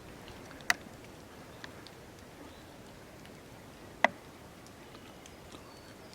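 Raindrops dripping and ticking here and there in light rain over a faint steady hiss, with two louder sharp drips, one under a second in and one about four seconds in.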